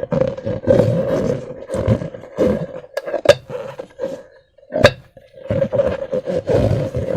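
Rubber balloons filled with slime being handled and squeezed: irregular rushing, squealing bursts that come and go, with two sharp snaps in the middle.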